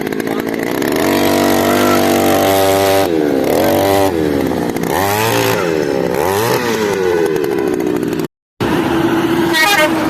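Small petrol engine running and revving, its pitch dropping and climbing back up several times, with a brief cut-out near the end.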